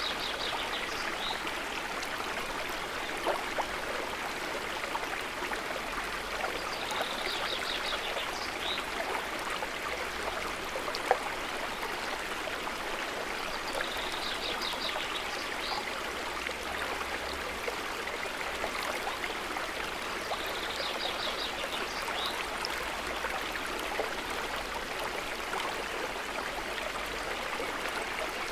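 River water running steadily over stones. A bird's short high trill repeats about every seven seconds, and a sharp tick sounds once near the middle.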